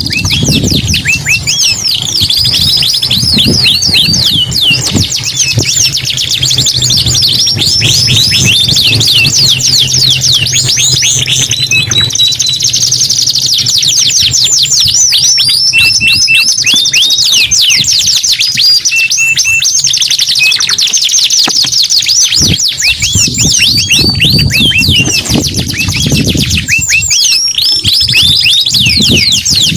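Domestic canaries singing without pause in long rapid trills of quick down-sweeping notes, broken now and then by short steady whistled notes.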